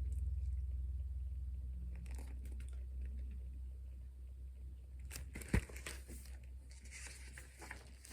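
Paper rustling and crinkling as the pages of a picture book are handled and turned, with one sharp tap about five and a half seconds in. A low steady hum runs underneath.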